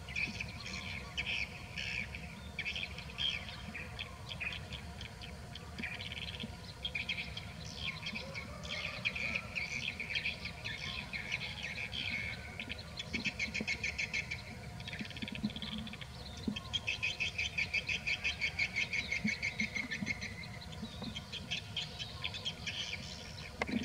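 Birds chirping in quick repeated notes throughout, with one longer run of rapid, evenly spaced notes lasting a few seconds about two-thirds of the way in, over a steady low background hum of outdoor ambience.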